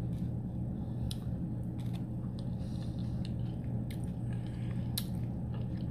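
Close-up mouth sounds of someone chewing a mouthful of creamed spinach, with scattered wet smacks and clicks about a second apart, over a steady low hum.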